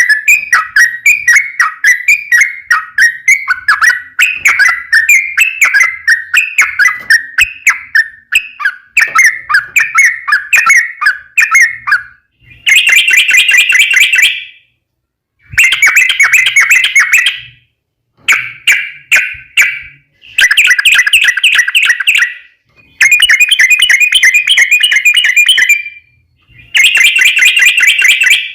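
Yellow-vented bulbul song played as a lure: loud, fast, chattering chirp phrases, then from about halfway a run of rapid trills about two seconds long with short breaks between them.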